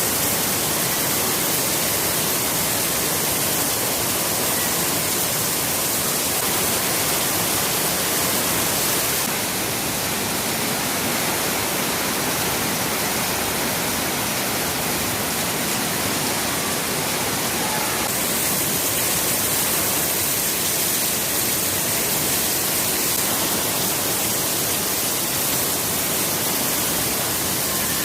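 Heavy rain pouring down in a steady downpour, a dense even hiss.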